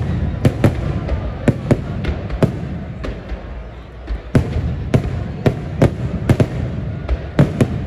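Aerial firework shells bursting overhead in quick, irregular succession: a string of sharp bangs, several in close pairs, over a constant low rumble.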